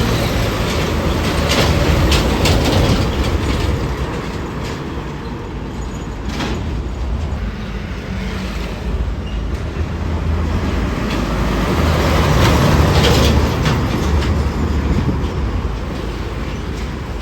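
Heavy road traffic passing: a low engine rumble and tyre noise that swell louder twice as vehicles go by.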